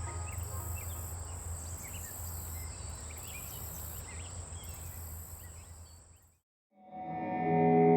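Steady ambient outdoor background noise with a low hum, a constant high thin tone and scattered short chirps. It cuts off abruptly about six seconds in, and after a moment of silence music with sustained tones swells in near the end.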